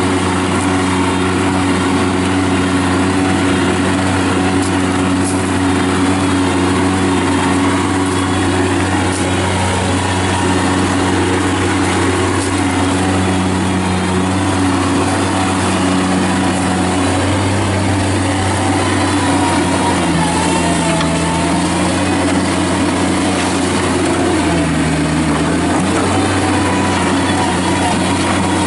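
Kubota diesel engine of a Bobcat MT52 walk-behind mini track loader running steadily as the machine is driven, its pitch dipping and shifting several times in the second half as the load changes.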